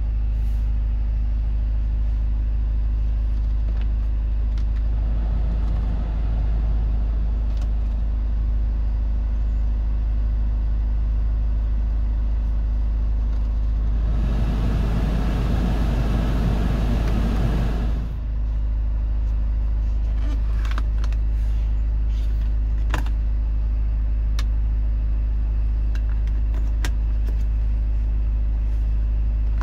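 BMW 520d's four-cylinder diesel idling, a steady low hum heard inside the cabin. About 14 seconds in, a rush of air from the climate-control fan rises and then cuts off suddenly some four seconds later. A few light clicks of switches follow near the end.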